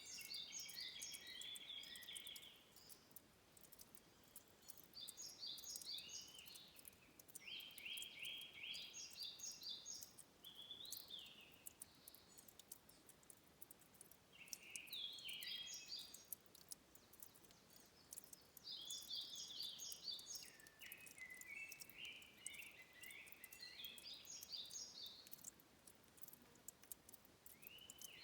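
Faint songbird song: short phrases of quick, high chirps repeated every three to four seconds, over a soft steady hiss.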